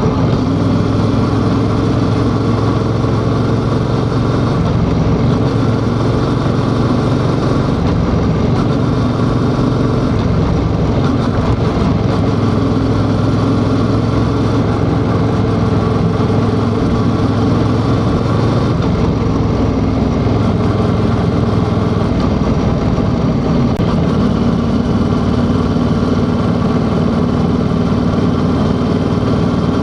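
Yamaha XSR700's 689 cc parallel-twin engine running at a steady, even engine speed, with only slight shifts in pitch.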